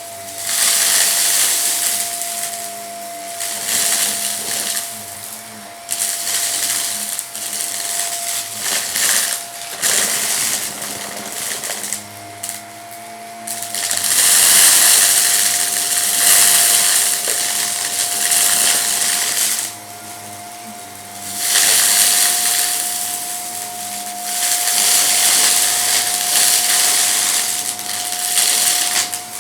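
Vacuum cleaner running with a steady motor whine, crackling and rattling in surges as it sucks up crunchy debris from a rug.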